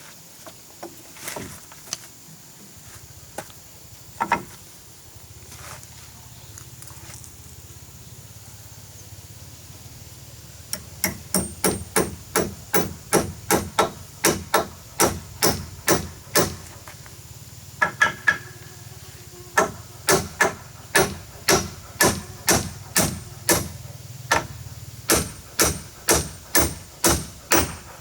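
Hammer blows driving nails into wood during carpentry. A few scattered knocks come first, then about ten seconds in, steady hammering at roughly two to three blows a second, in two runs with a short pause between.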